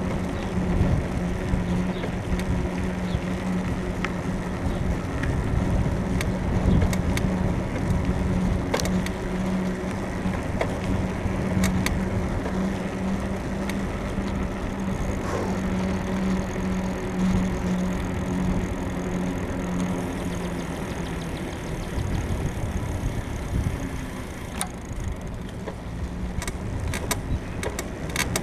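Riding a suspension bicycle: steady low rumble of wind and road with scattered sharp creaks and clicks from the frame, which the rider puts down to a worn suspension bushing. A steady low hum runs underneath and stops about three-quarters of the way through.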